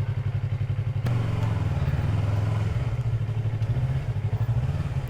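Motorcycle engine idling with a steady, even low pulse. A click about a second in, after which the engine runs a little louder.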